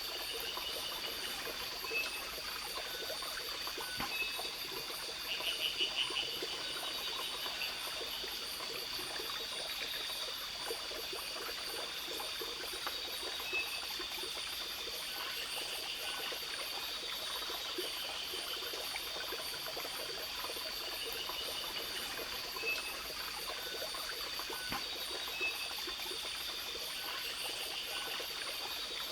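Forest ambience: a stream trickling under steady insect buzzing and a fast, regular high chirping. Short call notes repeat every few seconds, with a brief rapid pulsed call about five seconds in.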